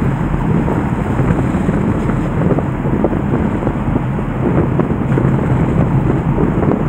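Floodwater of a river swollen by a typhoon rushing past in a steady, loud wash of noise, with wind buffeting the microphone.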